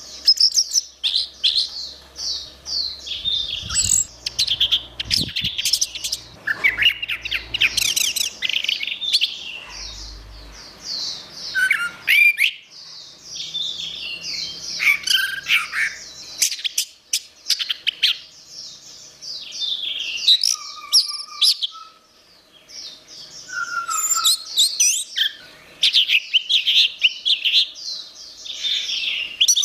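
Orange-headed thrush (anis merah) singing a long, varied song of quick high chirps, whistles and trills, broken by short pauses.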